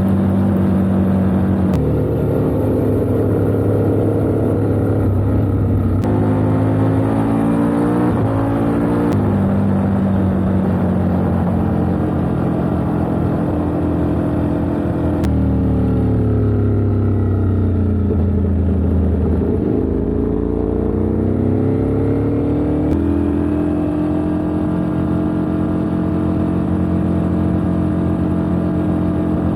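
Racing superbike engine at high revs, heard from an on-board camera. The pitch jumps several times, falls for a few seconds as the bike slows and then climbs again as it accelerates.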